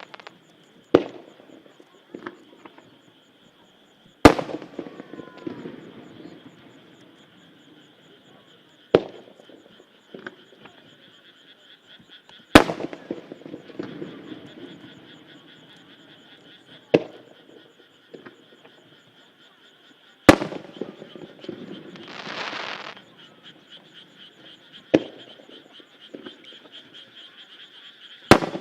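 Single aerial firework shells bursting one at a time, eight sharp bangs about four seconds apart, each trailing off in a rumbling echo. A steady chorus of croaking frogs runs underneath.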